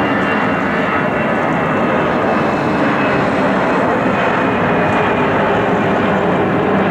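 Jet airliner engines: a loud, steady rush with a thin high whine that sinks slightly in pitch.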